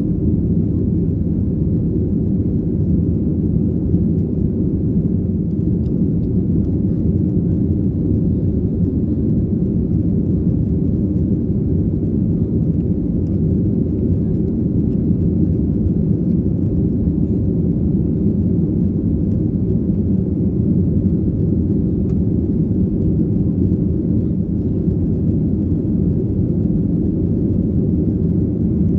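Steady low rumble of a Boeing 737-800's CFM56 jet engines and airflow, heard from inside the cabin at a window seat.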